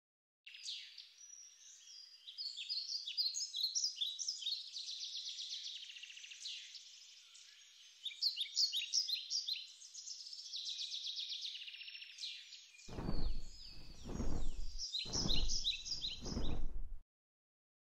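Many small songbirds chirping and twittering at once at a bird feeder, dense overlapping calls. In the last few seconds low rumbling bursts come in under the chirps, and the sound cuts off suddenly near the end.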